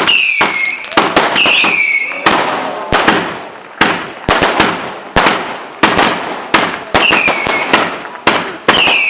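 Fireworks going off in quick succession: a dense run of sharp bangs and crackles, with several short falling whistles among them, near the start, about a second and a half in, and again around seven seconds and at the end.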